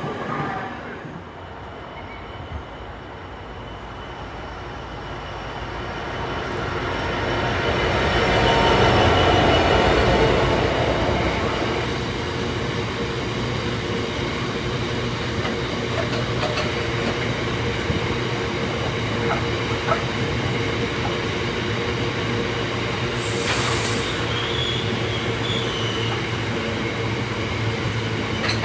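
Locomotive-hauled train on the rails, swelling to its loudest about nine seconds in, then a steady drone with an even hum from the locomotive. A brief hiss about twenty-three seconds in.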